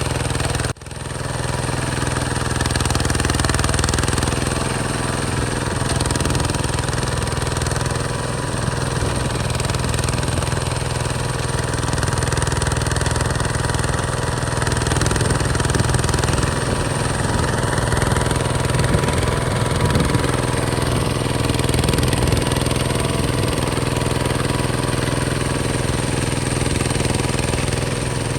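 Hinota HG Gold 155 DI tractor's diesel engine running steadily, with a brief break about a second in.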